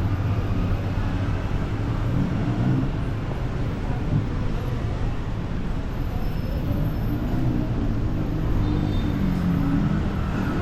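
Busy city road traffic: a steady rumble of many engines and tyres passing on the road below.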